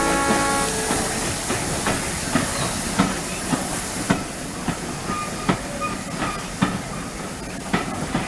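A train running along the track: a steady rushing hiss, with the wheels clicking over rail joints at uneven intervals, roughly one to two a second.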